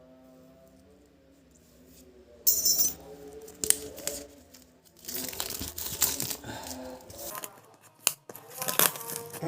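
Packaging of a toy puzzle being opened by hand: a sharp tear about two and a half seconds in, then crinkling wrapper and clicks and knocks of handling the box and parts.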